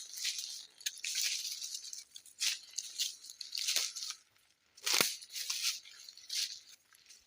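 Footsteps crunching on the dry forest floor in irregular steps, with a short pause a little past the middle.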